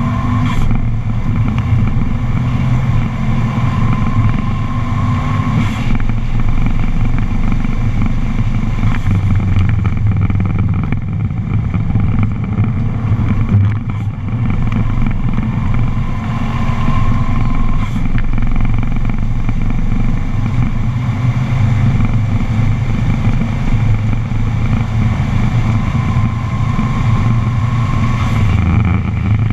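Subaru's engine pulling hard at track speed, heard from inside the cabin, with only a brief dip about halfway through. A thin higher tone rises above the engine noise a few times.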